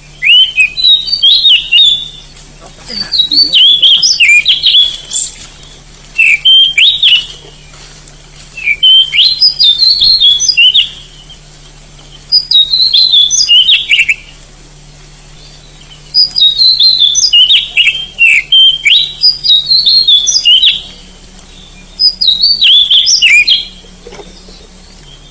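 Oriental magpie-robin (kacer) singing persistently: loud phrases of quick, sliding whistled notes, each one to two seconds long, repeated about eight times with short pauses between.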